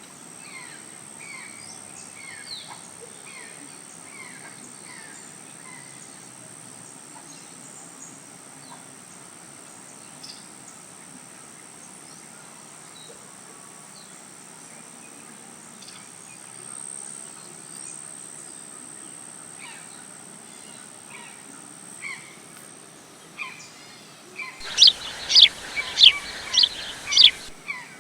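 Birds chirping with short repeated calls over a steady high-pitched whine. Near the end a bird gives six loud calls in quick succession.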